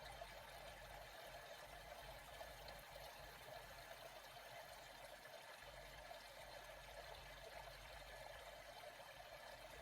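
Faint, steady flowing water.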